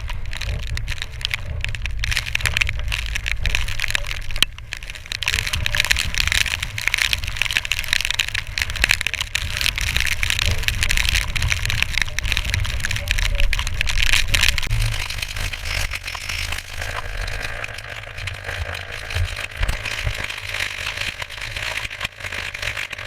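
Steady wind noise buffeting a GoPro's microphone, with a low rumble and many small crackles and taps, like rain striking the camera or vehicle.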